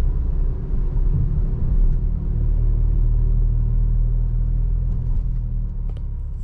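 Seat Ibiza FR 1.0 TSI three-cylinder engine running steadily through a Friedrich sport exhaust, a low rumble that fades out near the end.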